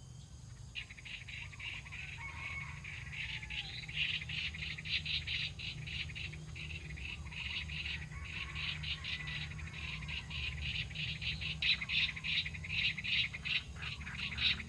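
Small birds chirping in a fast, continuous run of high chirps that grows louder towards the end.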